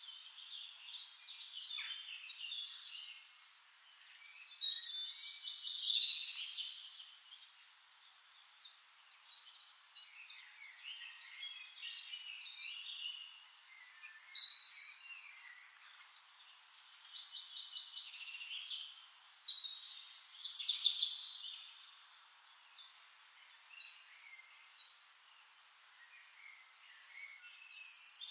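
Songbirds singing: loud bursts of high chirping song every several seconds, with quieter twittering between.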